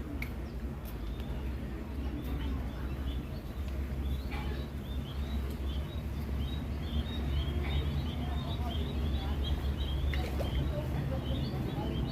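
Newly hatched bird chicks cheeping in quick, short, high chirps that grow busier about halfway through, over a steady low rumble.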